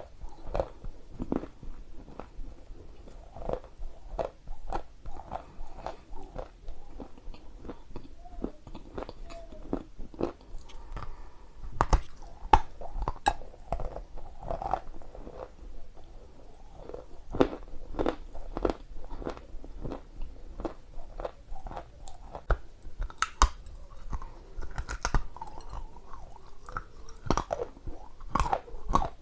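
Chunks of dry edible Ural clay being bitten and chewed close to the microphone, with irregular sharp crunches and crackles as the clay breaks between the teeth.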